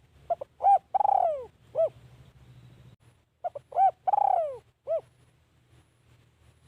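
Spotted dove cooing: two song phrases about three seconds apart, each a few short coos, then a long coo that falls in pitch, then a closing coo.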